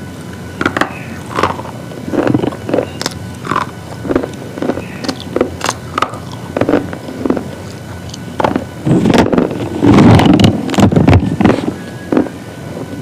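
Crunchy biting and chewing of brittle slate pieces: a sharp crunch two or three times a second, with a louder, denser run of crunching about nine to eleven seconds in.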